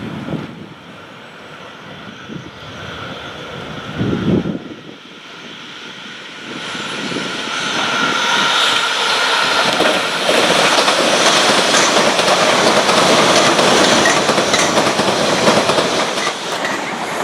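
Electric passenger train on a third-rail main line passing close by, growing loud about six seconds in and staying loud, wheels clattering over the rails.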